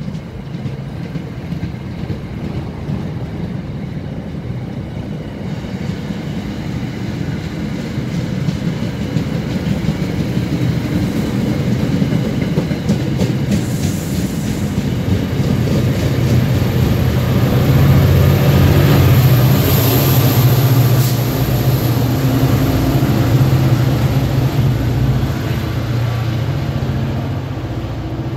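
MBTA commuter train of bilevel coaches passing close at speed, wheels clattering over the rail joints. It grows louder to a peak about two-thirds through, with a steady low drone from the diesel locomotive pushing at the rear as it goes by.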